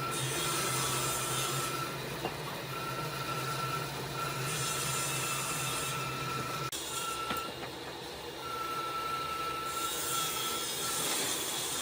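A power tool working wood: a steady motor whine that cuts in and out, with stretches of hissing friction as the tool passes over the wood.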